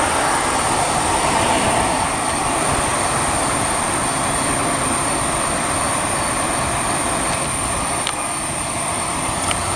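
A train passing: a steady, even noise of rail cars running by, with a thin, steady high whine over it.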